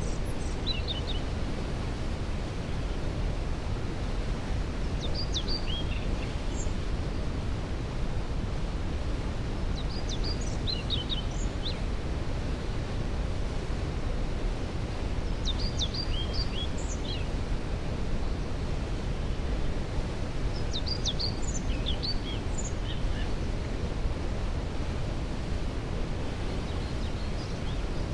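Steady rushing roar of a waterfall, with a bird singing short phrases of high chirping notes about every five seconds.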